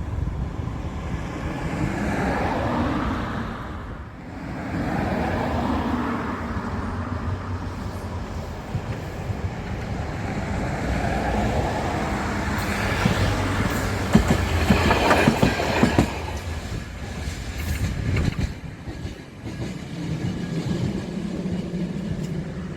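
A rail vehicle running past on the track, with wheels clattering over rail joints, loudest about two-thirds of the way through.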